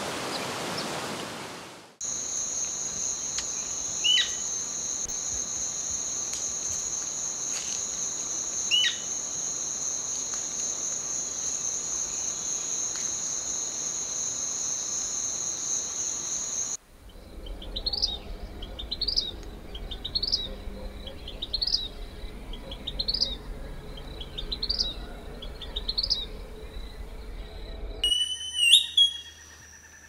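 Rushing river water, then a steady high insect drone with two short falling bird calls over it, then a bird repeating a quick rising chirp seven times, about every second and a half, and a brief whistled call near the end.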